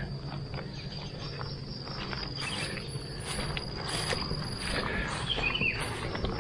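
Steady high-pitched insect drone from the garden, with scattered small clicks and rustles and a short chirp about five seconds in.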